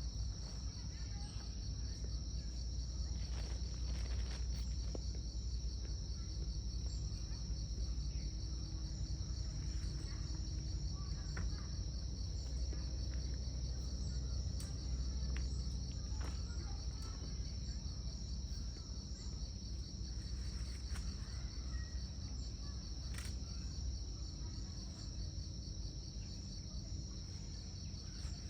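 Crickets chirping in a continuous high, rapidly pulsing chorus, over a steady low rumble and a few faint clicks.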